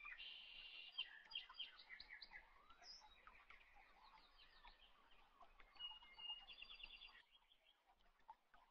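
Faint birds chirping, with several runs of quick repeated high chirps and trills.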